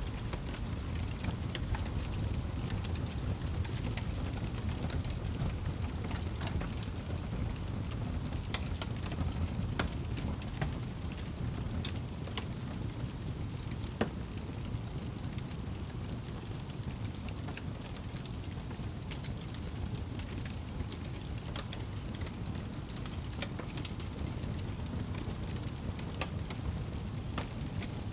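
Wood fire burning in a fireplace: a steady low rumble of flame with scattered sharp crackles and pops, one louder pop about halfway through.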